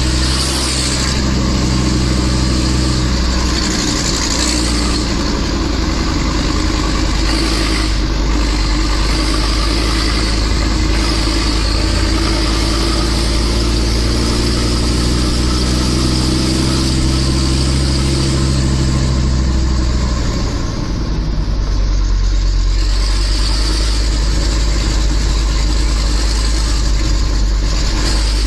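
Nissan Diesel RH10 V10 diesel engine of a heavily loaded truck pulling uphill, its engine note shifting and slowly rising in pitch, with a brief drop in level about twenty-one seconds in.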